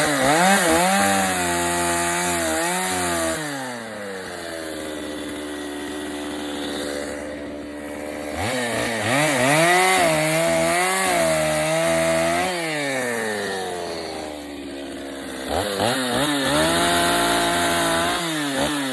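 Chainsaw cutting into a wooden block to carve out the bear's arm, revving up for three cuts and dropping back to idle in between.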